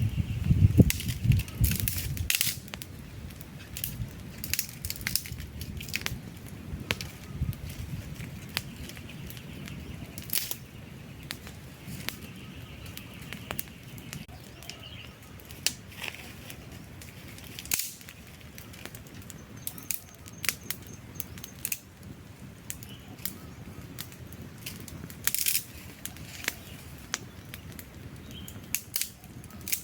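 Wood fire crackling, with irregular sharp pops and snaps over a low steady hiss. There is a louder low rumble for the first couple of seconds.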